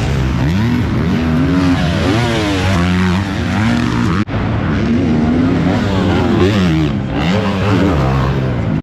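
Several four-stroke motocross race bikes running on the track, their engines revving up and down through the gears, overlapping one another. There is a brief cut in the sound a little past four seconds in.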